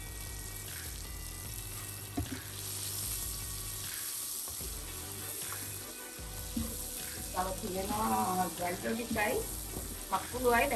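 Shell-on prawns sizzling as they fry in hot spiced oil in a non-stick pan, stirred with a plastic slotted turner, with a sharp click about two seconds in. In the last three seconds a person's voice is heard over the sizzle, louder than it.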